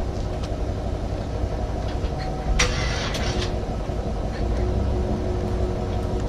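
Steady low drone of a pickup truck driving, heard from inside the cab, with a short hiss about two and a half seconds in.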